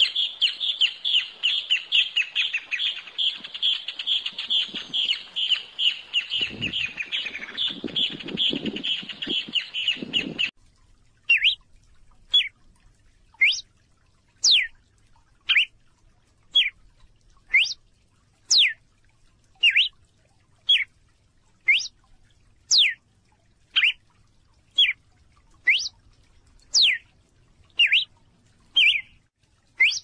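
A songbird gives a rapid run of repeated chirps for about ten seconds, with some low rumbles partway through. Then, after a sudden change, a red-cowled cardinal fledgling gives single sharp call notes, each falling steeply in pitch, about once a second.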